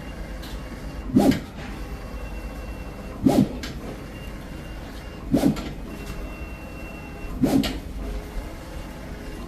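Cardboard pattern cutting plotter running, with short thumps at a steady two-second rhythm, four of them, and a faint high whine between some of them.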